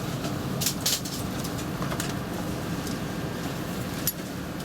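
Steady hum of an Airbus A320's cabin at the gate, the air-conditioning running, with a few sharp clicks about a second in and again near the end.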